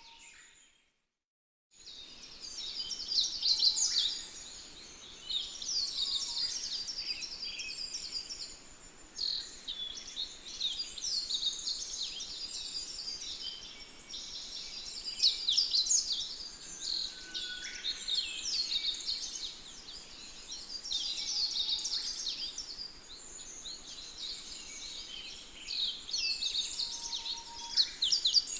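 Small birds singing and twittering in quick, high chirping phrases, one after another. The sound cuts out completely for about a second and a half near the start, then the birdsong resumes.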